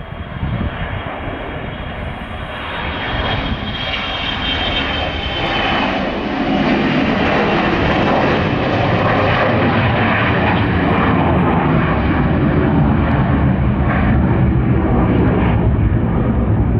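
Gulfstream G550 business jet's two Rolls-Royce BR710 turbofans running at take-off power, growing louder over the first several seconds and then holding at a steady loud roar.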